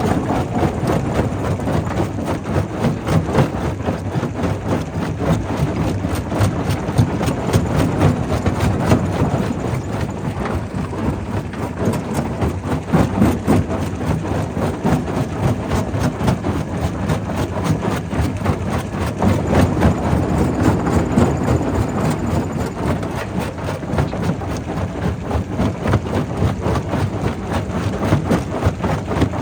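Primary rock crusher running while it crushes stone: a steady heavy rumble with a dense, irregular clatter of rock knocking.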